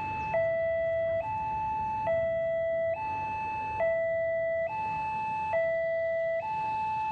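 Railway level-crossing warning alarm sounding, an electronic two-tone signal that alternates between a high and a low note, each held a little under a second. It warns that a train is approaching.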